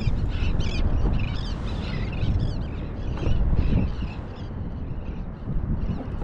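Small birds chirping rapidly and repeatedly, thinning out after about four seconds, over a steady low rumble of wind on the microphone.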